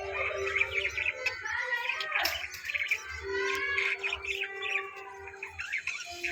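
Budgerigars chirping and chattering, many quick overlapping warbling calls.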